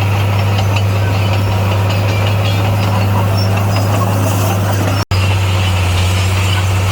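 Heavy diesel engine of construction equipment running steadily at a constant pitch. It cuts out for an instant about five seconds in, then carries on unchanged.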